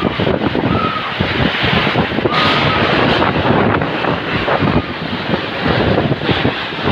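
Storm-force wind buffeting the microphone in a loud, continuous rushing gust noise, with brief faint high whistles about a second in and again a little over two seconds in.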